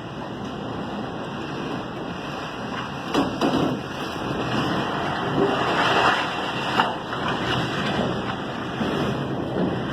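Strong storm wind blowing in gusts, buffeting the microphone. A few brief clatters come a little over three seconds in and again near seven seconds.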